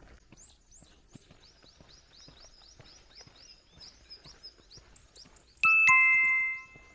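A two-note descending 'ding-dong' chime rings out loudly near the end and dies away after about a second. Before it, faint high chirps repeat a few times a second.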